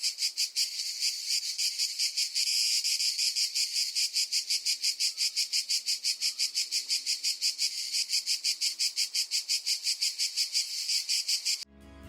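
Cicada calling: a high, buzzing drone that pulses about six times a second, made by the ribs of its timbal organs buckling in rapid clicks. It cuts off abruptly near the end.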